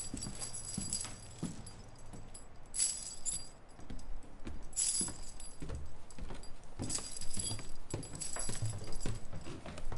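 Slow footsteps thudding, with bursts of metal jangling every second or two.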